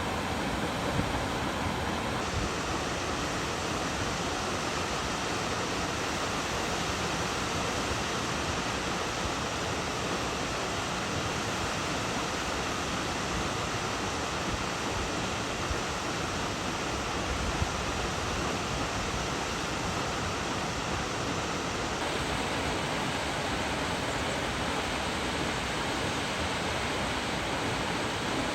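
Steady rushing of Salt Creek Falls, a tall plunge waterfall. Its tone shifts slightly about two seconds in and again about twenty-two seconds in.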